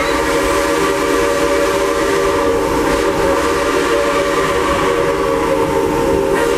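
A train whistle sounding one long, steady, chord-like blast that stops abruptly near the end.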